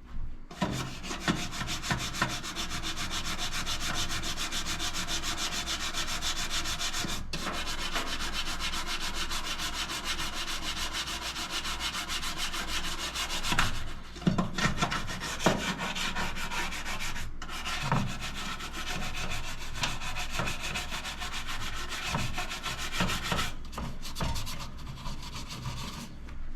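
Fast, steady scrubbing of a greasy toaster oven door with a water-and-baking-soda paste, a rapid rubbing that stops briefly a few times.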